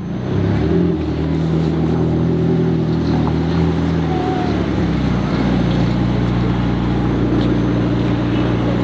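A car engine running steadily, its pitch shifting slightly about four seconds in.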